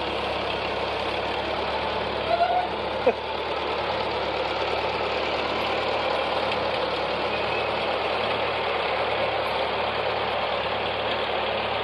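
Tractor engine running steadily, with a couple of brief louder knocks about two to three seconds in.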